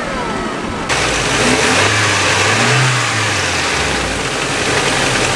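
Nissan 240SX's KA24DE four-cylinder engine starting about a second in, revved up and back down once, then running at idle. No timing chain rattle is heard now that the timing chain guides have been taken out.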